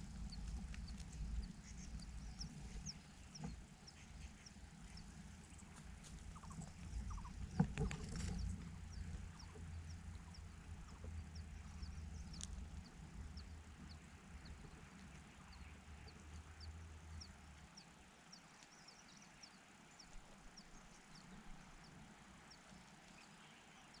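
Faint rustling of a parent bird moving in a grass nest, with a louder brief rustle about a third of the way in, over a low rumble that stops about three quarters of the way through. A long run of faint, short high ticks runs through most of it.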